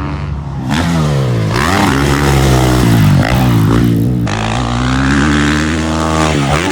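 Motocross bike engines revving hard. The pitch rises and falls several times as the throttle opens and closes and the gears change.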